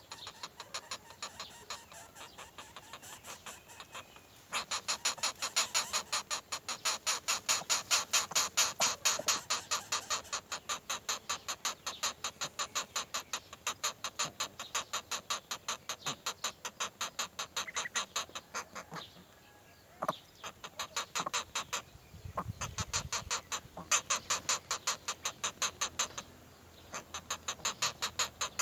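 Bird calls: a fast, even run of short harsh chirps, about five a second, breaking off briefly twice.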